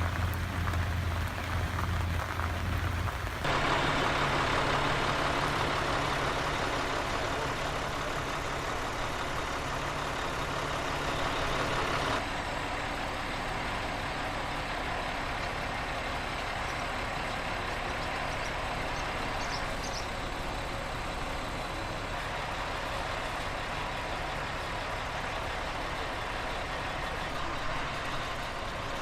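An engine running steadily, with a low hum in the first few seconds. The sound changes abruptly twice, about three and a half and twelve seconds in.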